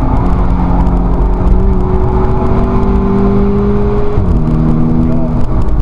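Volkswagen Scirocco race car's engine heard from inside the cabin, pulling under load with its pitch slowly rising, then dropping quickly about four seconds in at a gear change and running on at a lower pitch, over steady road and wind noise.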